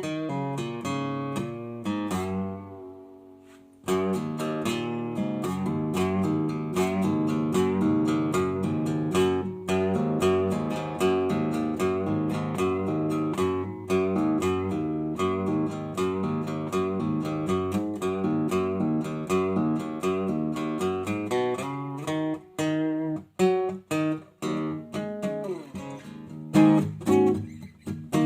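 Acoustic guitar strummed with full chords and no singing. About two seconds in a chord is left to ring out and fade, then the strumming starts again; near the end it turns to short, choppy strokes with brief stops between them.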